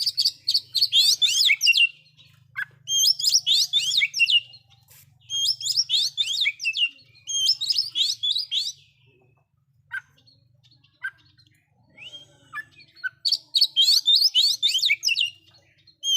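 Oriental magpie-robin singing loudly in five bursts of quick, sharply falling whistled notes, with a few short single calls between them about ten to thirteen seconds in.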